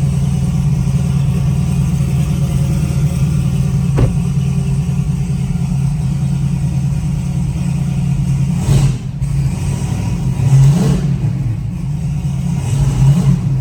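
Turbocharged GM Gen V LT V8 drag truck running loudly at a steady idle while being backed onto chassis dyno rollers, with a few short throttle blips in the second half. There is a sharp click about four seconds in.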